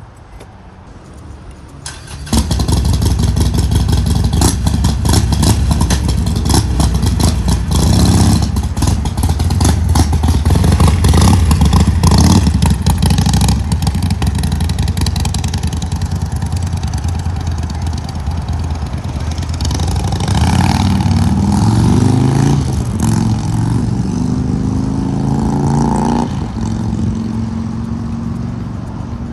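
Harley-Davidson V-twin motorcycle engine running loudly, coming in sharply about two seconds in, then revving up in rising sweeps near the end as the bike accelerates.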